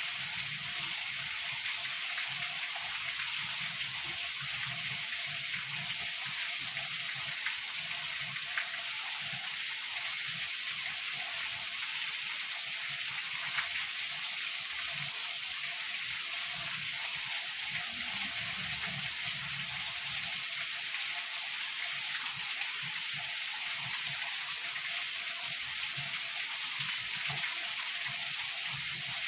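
Heavy rain falling steadily, a dense even hiss, with a faint low rumble underneath.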